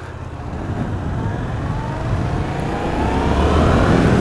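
A 2015 Yamaha FZ-07's parallel-twin engine accelerating as the motorcycle pulls away. Its note rises steadily in pitch and grows louder.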